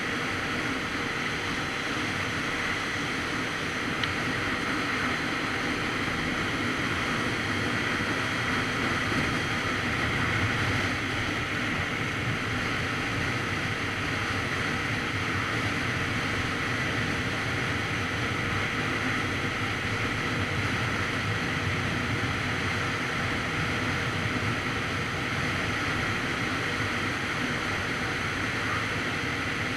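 Steady wind rush over the microphone of a Kawasaki Z900RS Cafe motorcycle under way, with the bike's inline-four engine running underneath.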